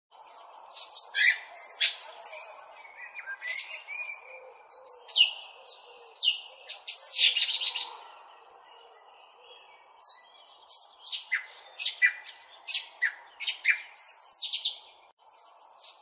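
Birds chirping: quick runs of sharp, high notes, many sweeping downward, repeated throughout with brief lulls.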